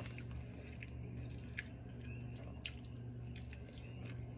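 Quiet chewing and small wet mouth clicks from someone eating a soft steamed shumai dumpling, over a steady low hum.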